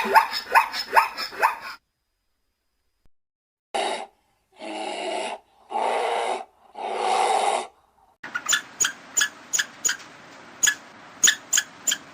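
Animal calls in three different runs: a quick series of short pitched calls, then four longer calls about a second each, then a string of sharp chirps or clicks about three a second.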